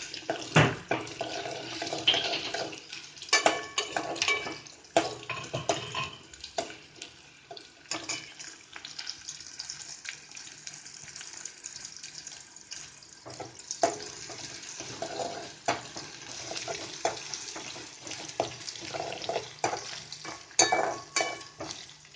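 Sliced onion sizzling in hot oil with mustard seeds and curry leaves, a steady hiss. A spoon stirs it and knocks and scrapes irregularly against the pan.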